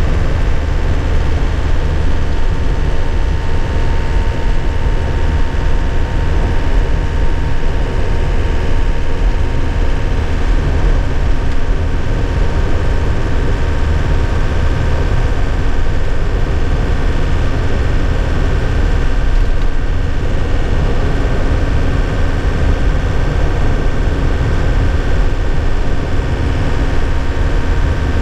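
2001 Nissan Cabstar light truck's diesel engine running steadily, heard from inside the cab, with a deep drone, a few steady higher tones and an even hiss of road and tyre noise.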